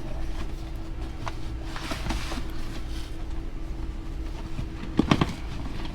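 Steady low hum with a few light clicks, then a quick cluster of clattering knocks about five seconds in, as items are shifted around in a dumpster of frozen goods.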